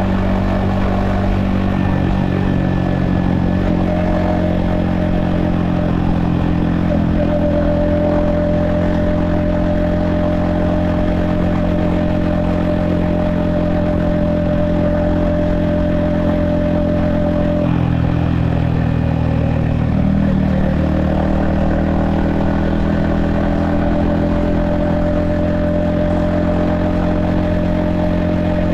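Yamaha XSR155's 155cc single-cylinder engine and exhaust running at a steady cruise, heard from the rider's helmet. A little past halfway the engine note drops for a couple of seconds, then climbs back and holds steady again.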